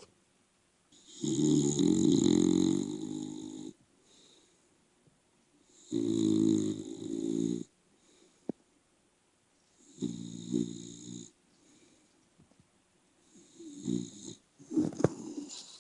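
Bulldog snoring in her sleep: four snores, one every four seconds or so, the first the longest, each a low buzzing breath.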